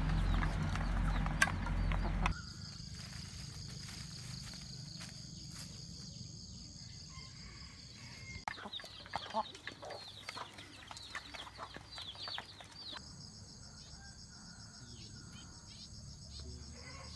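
Chickens clucking. There is a louder low rumble in the first two seconds, and a steady high-pitched whine runs through two later stretches.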